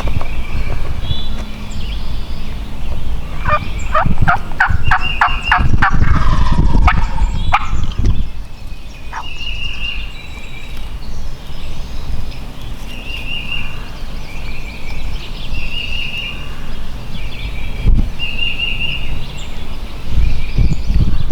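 Wild turkey gobbler calling close by: a loud run of rattling notes, about eight strokes, starting about three and a half seconds in and trailing off a few seconds later. A small bird repeats a short high trill every few seconds.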